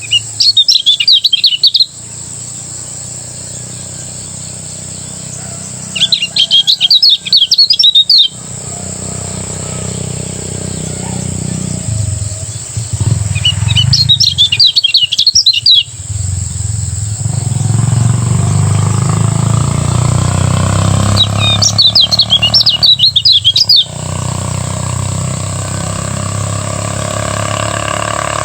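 Kecial kuning, a Lombok white-eye, singing its rapid ngejos song: four fast, high-pitched warbling bursts of about two seconds each, several seconds apart, over a steady low hum.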